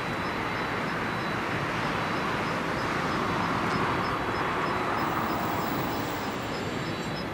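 Jet engine noise from a Boeing 767-300ER, a steady broad rush that swells slightly around the middle.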